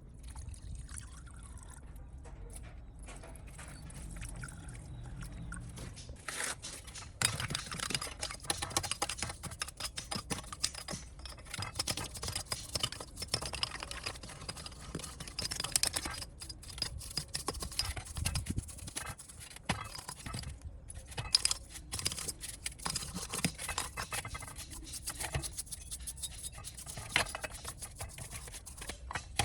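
Irregular scraping and brushing with many small clicks and knocks, typical of hand tools working on parts; it grows busier and louder about six seconds in.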